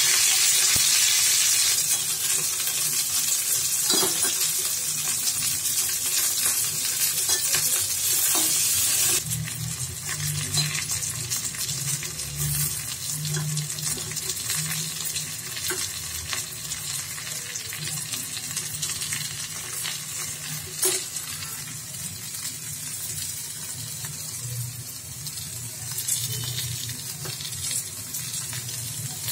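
Okra and onion frying in a pan: a steady sizzle, loud at first and dropping sharply about nine seconds in, with scattered clicks and scrapes of a steel ladle stirring the vegetables.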